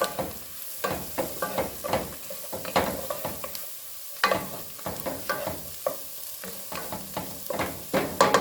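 A utensil scraping and clacking against a pot while stirring mushrooms sautéing in butter, with a faint sizzle underneath. The strokes come irregularly, several a second, a few sharper knocks standing out about halfway through and near the end.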